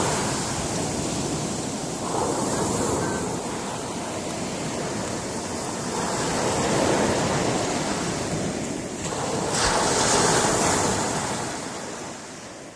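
Sea surf washing against a rocky shore, with waves surging in about every four seconds. It fades out near the end.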